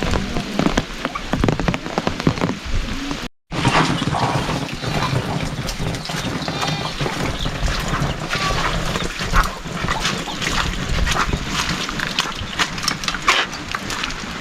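Heavy rain falling, with a short complete drop-out about three seconds in, and an animal calling briefly among the rain a few seconds later.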